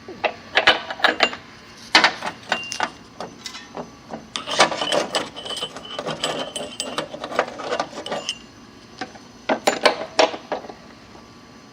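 Hand tools working on an electric water heater's element fittings: irregular metallic clicks, rattles and scraping in clusters, with a short ringing metal tone near the middle.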